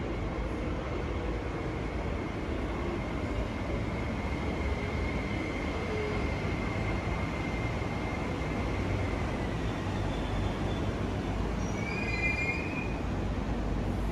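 MTR IKK-Train (SP1900 electric multiple unit) running into the platform and slowing: a steady rumble with a thin high whine that fades partway through, then a brief high squeal about twelve seconds in as it brakes toward a stop.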